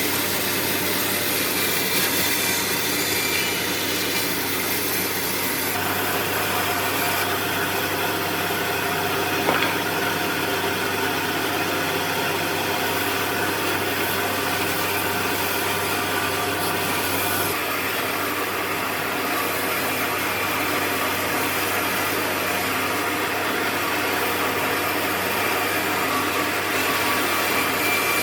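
Power tools working wood: a steady, noisy mechanical whir with a low motor hum. The sound changes character about six seconds in and again a little past halfway.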